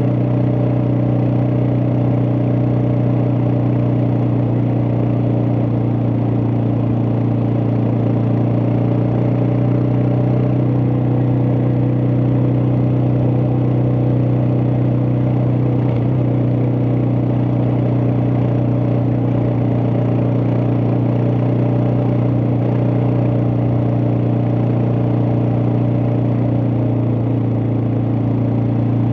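Suzuki DR650's single-cylinder four-stroke engine running at a steady speed, its pitch holding constant throughout.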